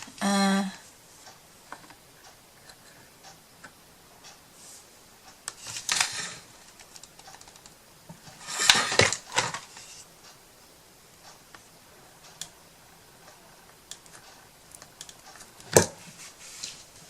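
Small craft pieces being handled on a work surface: scattered light clicks and taps, louder rustling bursts about six and nine seconds in, and a sharp click near the end.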